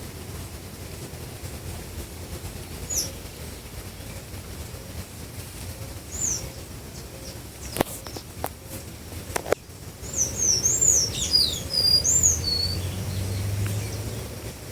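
Small birds chirping with high, quick notes, a few single calls at first and then a burst of rapid chirps near the end. Two or three sharp clicks come in the middle.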